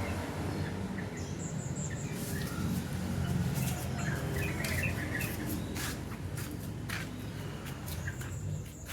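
Yellow-vented bulbul (trucukan) giving short scattered chirps and quick high call notes, mixed with several sharp clicks and a steady low hum.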